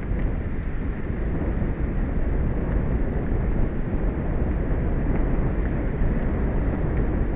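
Steady wind and sea noise on an outdoor microphone over open ocean: a constant low rumble with a rushing hiss above it, unbroken and even.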